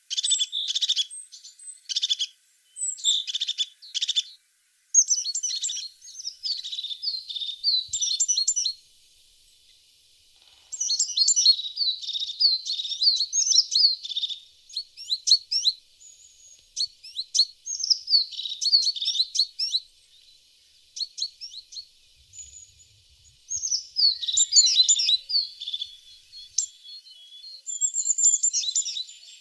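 Tits singing: phrases of rapid, high chirps and quick sweeping notes, each run lasting a few seconds and separated by brief pauses.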